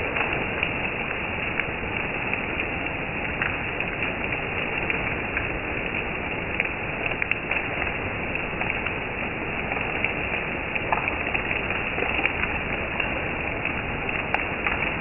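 Steady downpour of rain falling through trees onto grass and a concrete ledge, an even hiss with scattered sharp taps of nearby drops.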